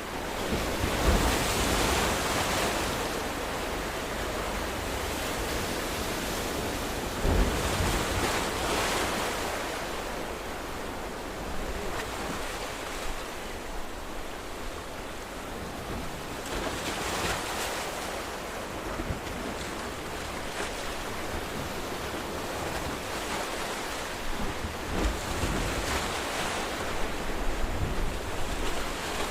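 Ocean waves breaking and washing in over a steady surf hiss, a wave swelling up about every eight seconds.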